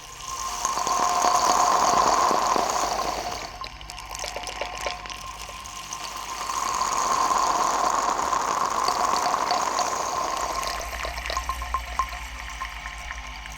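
Watery gushing, bubbling sound that swells up twice, with scattered crackling clicks, over a low steady hum.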